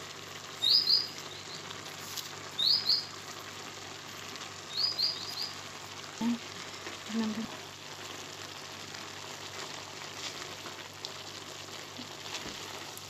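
A small bird chirping: short groups of two or three quick high chirps, about every two seconds through the first five seconds, then stopping. Underneath, a steady faint sizzle of green beans cooking in butter and onion in the pot.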